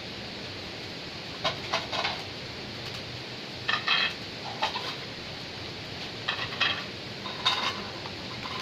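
Dishes and utensils clinking in several short clusters over the steady rush of a waterfall.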